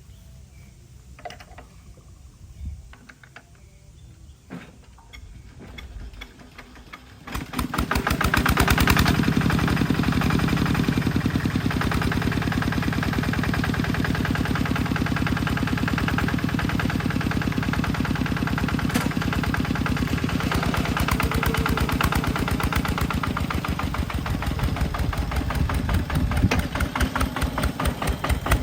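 Quiet at first with a few light clicks, then an engine starts about seven seconds in and runs steadily at a fast, even firing beat.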